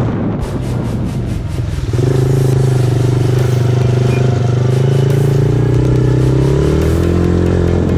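Small off-road engine of a dirt bike or quad running hard on the track: a rough, unsteady patch in the first couple of seconds, then a steady drone under throttle that drops in pitch near the end as it eases off.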